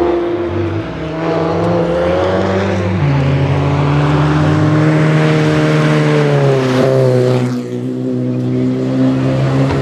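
Rally car engine at full throttle, its note stepping with gear changes and rising as the car closes in. The noise swells, then drops off sharply about three-quarters of the way through as the car goes past, leaving a steadier, lower engine note.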